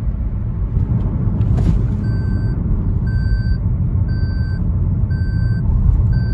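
Steady low rumble of a car driving on the road. From about two seconds in, an electronic warning beep sounds about once a second, each beep about half a second long.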